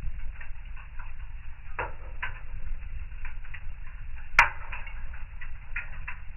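Wood fire burning in a fireplace, crackling and popping irregularly over a low rumble, with one sharp, louder pop about four and a half seconds in.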